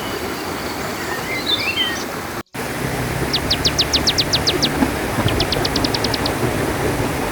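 A small bird calling in quick runs of about a dozen sharp, falling notes, twice, after some scattered twitters, over the steady rush of a flowing river. A brief cut to silence comes a couple of seconds in.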